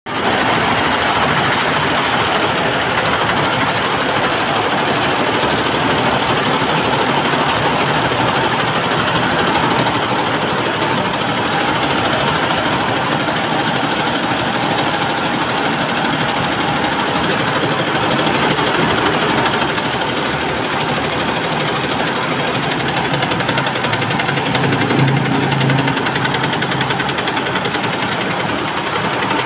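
Computerised embroidery machine running, stitching with a steady, dense mechanical clatter.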